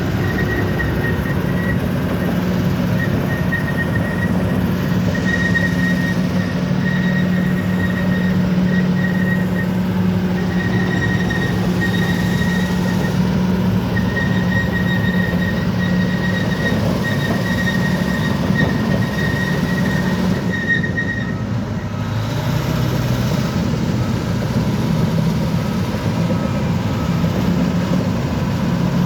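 Bulldozer's diesel engine running steadily, with a high-pitched squeal that comes and goes in short stretches and stops about two-thirds of the way through.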